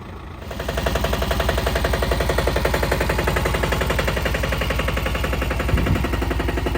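Isuzu 4x4 fire truck's diesel engine rising from idle about half a second in to a faster steady run, with a rapid, even chugging of exhaust pulses.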